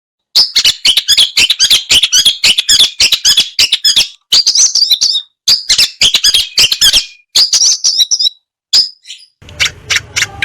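A songbird singing loud, rapid phrases of sharp notes, broken by short pauses. Near the end a different sound takes over: a low steady hum under a run of evenly repeated notes.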